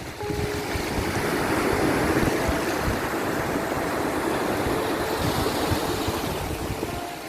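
Ocean waves washing ashore: a swell of surf noise that builds over the first couple of seconds, holds, and eases off near the end. A few faint held tones sound softly underneath.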